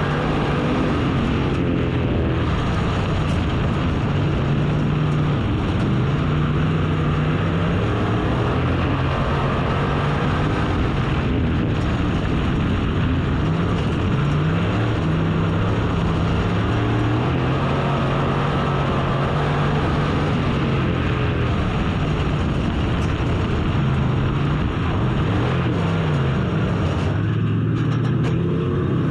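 Race car engine running hard at racing speed, its pitch rising and falling again and again as it revs up and drops back.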